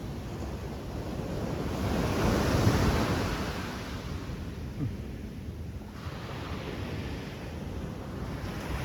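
Sea waves breaking on a sandy beach in rough surf, one wave crashing about two to three seconds in and a weaker one around six to seven seconds, with wind rumbling on the microphone.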